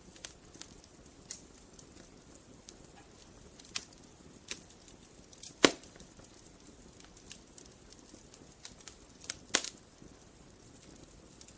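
Wood fire crackling: irregular sharp pops and snaps over a faint hiss, with two louder pops, one about halfway through and one near the end.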